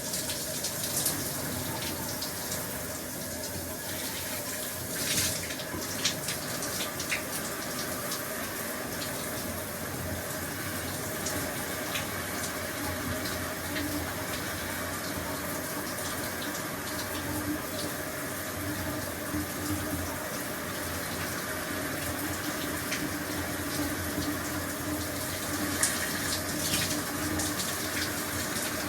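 Shower running steadily, water spraying and splashing with an even hiss and now and then a brief louder splash.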